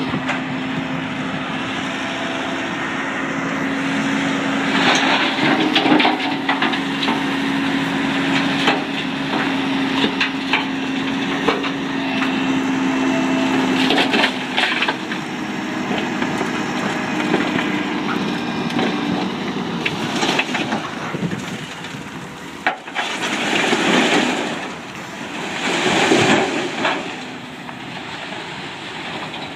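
Freightliner dump truck unloading dirt: the truck runs with a steady hum while the bed tips, and the load slides out with scattered cracks and knocks of dirt and rock. The hum fades out about two-thirds of the way through, followed by two louder rushing swells near the end.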